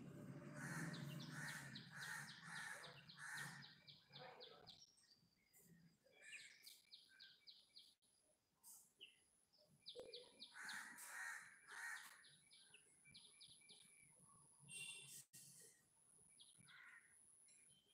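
Birds calling outdoors, faint: short bursts of fast, high ticking notes recur throughout, with runs of lower, harsher calls at the start and again about ten seconds in.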